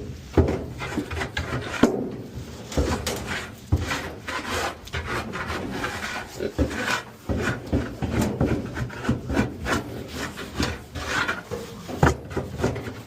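Straw bedding being spread in a calf pen: irregular rustling and scraping with scattered wooden knocks and thumps.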